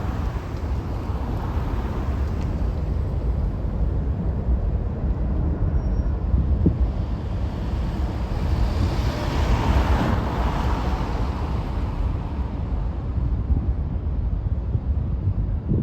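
Jet airliner taking off, its engine noise swelling to a peak a little past the middle and then easing as it climbs away, over a low rumble of wind on the microphone.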